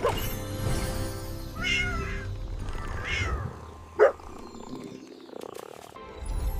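A cat meowing twice, with a short sharper call about four seconds in, over soft background music.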